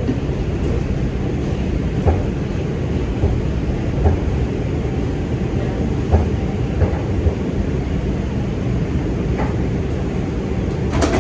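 Steady low rumble and hiss inside a New York City subway car on the 2 train, with a few light clicks or knocks from the car.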